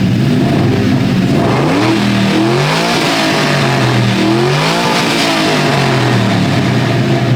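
Engine being revved up twice: its note climbs sharply and drops back to a steady idle between revs.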